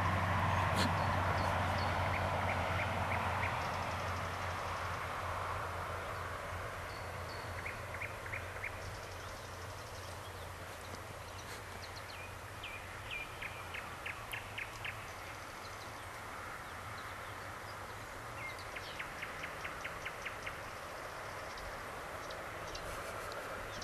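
Outdoor ambience: a low rumble fades away over the first few seconds. Birds then call, with several quick runs of short rapid notes and a few brief high whistles.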